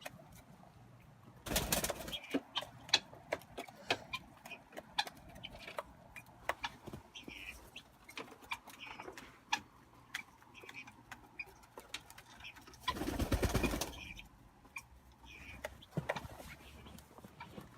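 Doves cooing softly, with scattered sharp clicks and two brief bursts of rustling noise, one early on and one about three-quarters of the way through.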